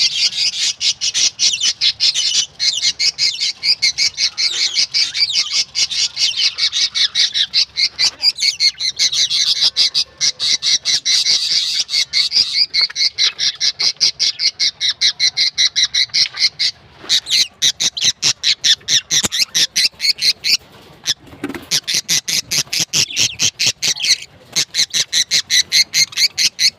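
Budgerigars (budgies) chattering: a dense, continuous stream of rapid high chirps and squawks, many to the second.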